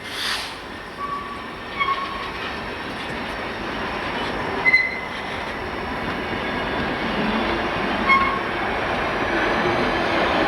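Train rolling by, its rumble growing steadily louder, with brief high wheel squeals about a second in, near two seconds, near five seconds and near eight seconds.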